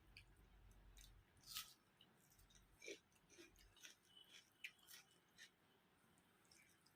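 Faint eating sounds: scattered soft clicks and smacks of chewing and handling rice and curry, with a few louder ones about one and a half and three seconds in.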